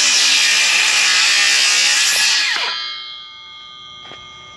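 Circular saw cutting through a pine 2x6 guided along a speed square. About two and a half seconds in it finishes the cut and the trigger is released, and the motor winds down with a falling whine, leaving a faint steady hum.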